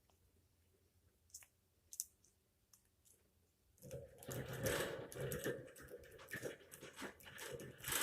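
African grey parrot preening: a few sharp beak clicks, then from about four seconds in a dense, crackly rustling and chewing-like noise close to the microphone.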